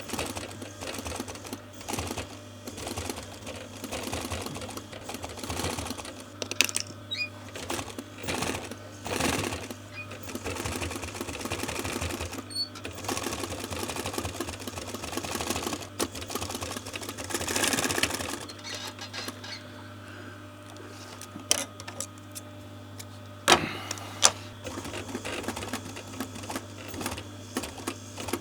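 Sewing machine stitching upholstery panels in runs of rapid stitches over a steady low motor hum. There are a few sharp clicks near the end.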